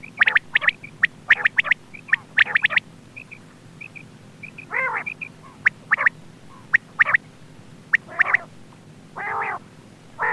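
Quail calling: rapid runs of short, sharp notes mixed with a few longer rasping calls, with fainter soft chirps between them. A steady low hum runs underneath.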